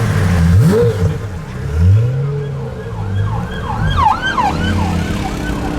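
Car engine revved in quick blips, its pitch shooting up and dropping back. From about three seconds in, an emergency-vehicle siren wails in quick up-and-down cycles.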